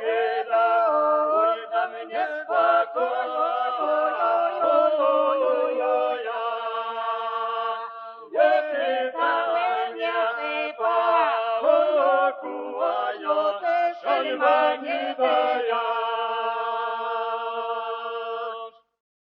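Unaccompanied choral singing with several long held notes; it breaks off shortly before the end.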